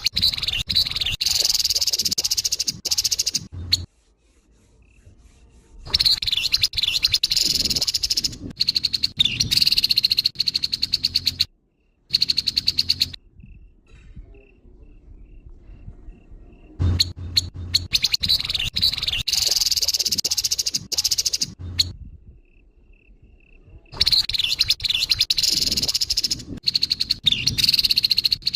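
Grey-headed babbler (tepus kepala abu) giving harsh, rapid chattering calls in bouts of a few seconds, broken by short pauses.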